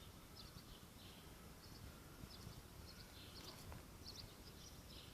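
Faint bird chirps: short high calls repeating about twice a second over a low, steady outdoor background noise.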